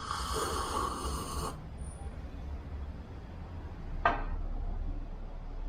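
A loud slurping sip of coffee lasting about a second and a half, followed about four seconds in by a single short sharp click.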